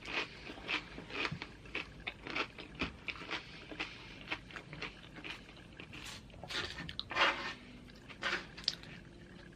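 Mouth chewing and crunching loaded nachos: tortilla chips breaking between the teeth in short, irregular crunches a few times a second.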